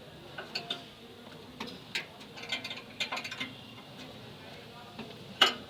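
Scattered clicks and light knocks of metal parts and tools being worked under a car, irregular, with one louder, sharper knock near the end.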